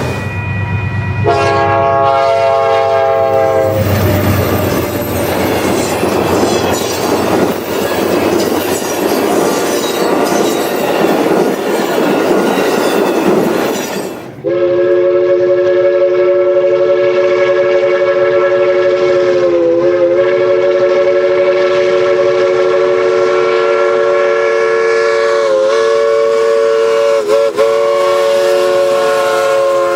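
A train horn sounds a short chord, then a passing train rumbles and clatters for about ten seconds. After a sudden cut, a multi-note train horn chord is held steadily for the rest of the time, with three brief breaks.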